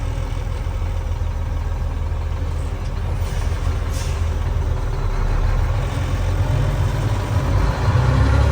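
Cummins M11 straight-six diesel of a 1998 Freightliner dump truck running steadily at low speed, with a short hiss about four seconds in. The engine grows louder near the end.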